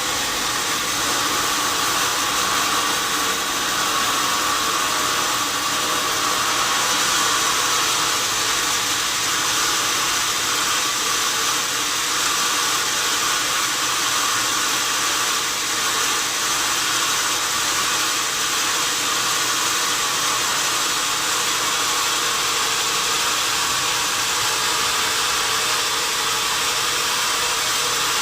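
Sawmill saw cutting through a wadang log, a loud, steady, unbroken whirring hiss.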